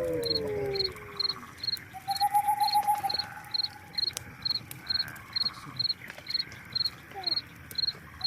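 A field cricket chirping at an even pace, about two and a half high chirps a second. A lower-pitched trill joins it for a couple of seconds, and a falling call fades out within the first second.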